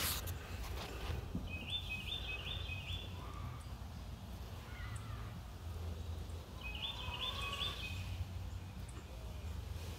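A songbird singing two short phrases of three or four quick repeated notes, about a second and a half in and again about seven seconds in, with fainter lower chirps between, over a steady low outdoor rumble.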